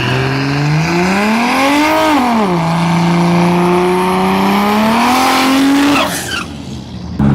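Turbocharged 2JZ inline-six in an S14 240SX drag car accelerating hard: the revs climb, drop sharply as the automatic transmission shifts up about two and a half seconds in, climb again, and the engine is shut off about six seconds in.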